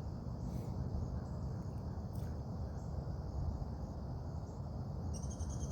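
Insects trilling in a steady high chorus over a low steady rumble; near the end a louder pulsing trill joins in.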